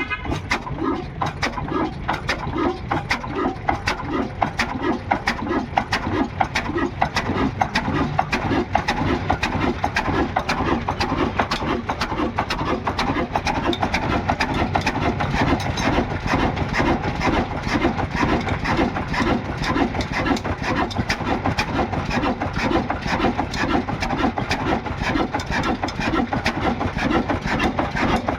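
Old Ruston Hornsby diesel engine running with a steady, even knocking beat.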